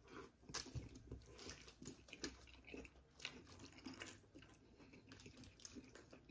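Faint wet chewing of a bite of a juice-dipped Italian beef sandwich, with scattered soft mouth clicks.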